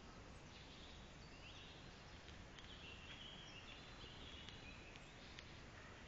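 Near silence: faint steady hiss with distant birds chirping now and then.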